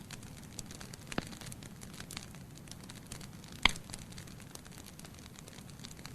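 Wood logs burning in a fireplace, crackling with many small snaps over a low steady hiss of the flames. There is a louder pop just over a second in and a sharp, much louder pop a little past the middle.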